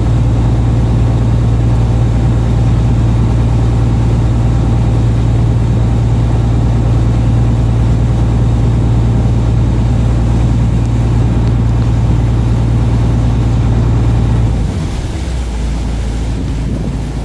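A fishing boat's engine runs with a steady low drone. About three-quarters of the way through, the engine note drops and the drone gets quieter, as if the throttle were eased back.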